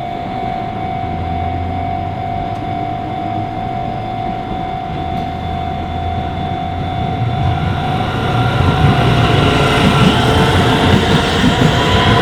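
Japanese level-crossing warning bell ringing with a steady high tone, then a Shin-Keisei electric train approaching the crossing, its running noise growing steadily louder from about eight seconds in.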